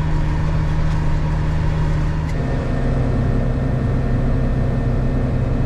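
Tractor's diesel engine running steadily, heard from the cab; about two seconds in its note shifts and grows fuller, as with a change of engine speed or load.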